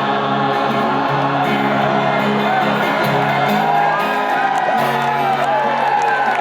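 Live band playing the closing bars of a song on sustained chords, with audience members whooping over the music.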